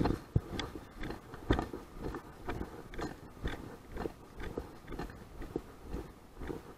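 Footsteps at a steady walking pace, about two a second, each with a crunchy crack, over wind rumbling on the microphone.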